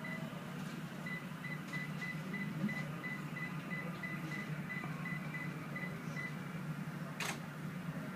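Steady low hum with a rapid series of short high electronic beeps, about three a second, that stop about six seconds in. A single sharp click comes near the end.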